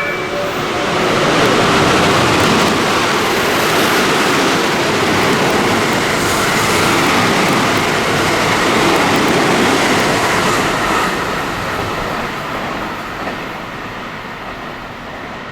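A JR West electric train running through the station at speed without stopping: a loud, steady rush of wheels on rail and passing cars that fades away over the last few seconds.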